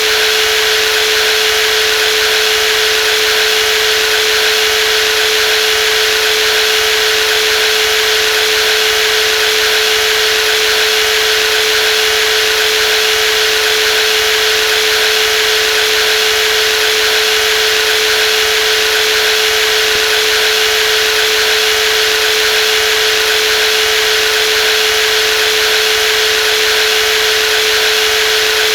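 Brushless jigsaw running steadily at constant speed: one unchanging tone with a hiss over it.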